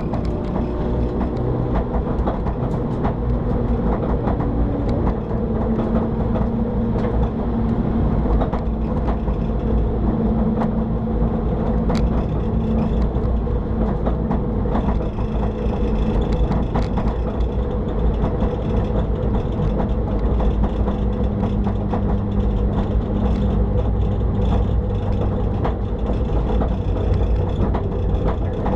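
BMW 325i E90's straight-six engine running inside the stripped race car's cabin. The engine note is mostly steady and shifts pitch now and then, with scattered knocks and rattles.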